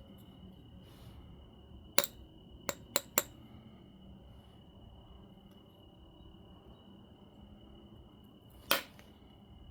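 Obsidian being knapped: four sharp ticks within about a second as flakes come off the biface, then a louder, slightly longer crack near the end.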